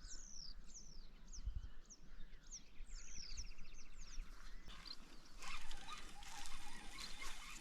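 Songbirds calling, with quick falling chirps and a short buzzy trill. About five seconds in, a rustling, clattering noise takes over.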